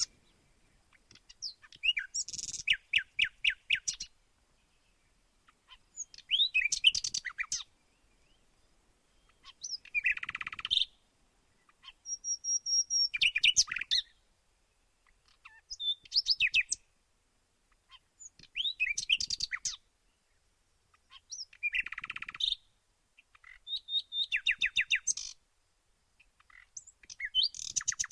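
Songbird singing in short phrases of rapid, high chirping notes, about one phrase every three seconds, with near-silent pauses between.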